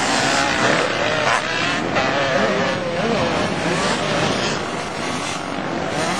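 Motocross bikes running on a dirt track, with several engines revving up and down at different pitches at once.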